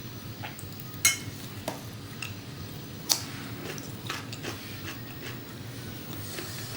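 Eating utensils clinking and scraping against a dish, with two sharp clinks about two seconds apart and lighter clicks between.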